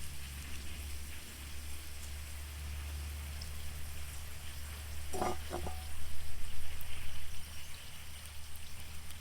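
Eggs and potatoes frying in oil in a cast iron skillet over a campfire: a steady sizzle that grows louder about six seconds in, with two short pitched sounds about five seconds in.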